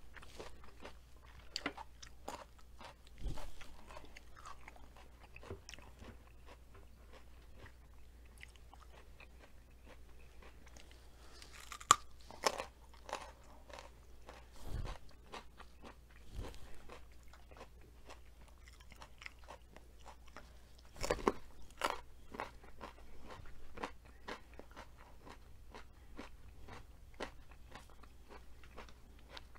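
A person biting and chewing crunchy food: a steady run of short, crisp crunches, with a few louder bites now and then.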